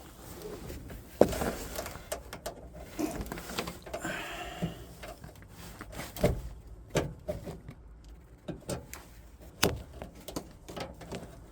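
Irregular knocks, clicks and rubbing of hands working a rubber vacuum pipe onto its fitting and into place on the truck's wiper system, with a brief rustle about four seconds in.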